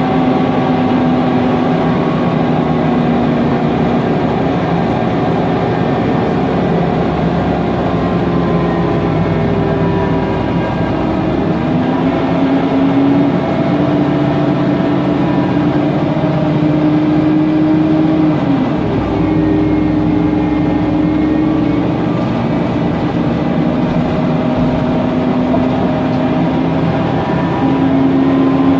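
Mercedes-Benz Conecto NGT city bus under way: the Voith DIWA automatic gearbox whistles, its whine climbing and falling in pitch with road speed over the running of the CNG engine and cooling fan. Partway through, the whine drops sharply and then climbs again.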